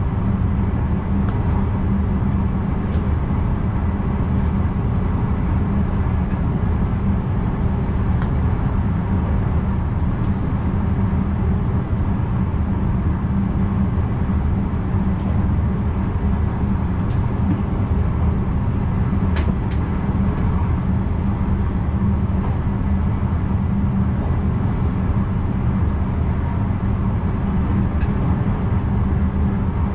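NS VIRM double-deck electric train running, heard from inside the driver's cab: a steady low rumble of wheels and running gear, with a few faint clicks here and there.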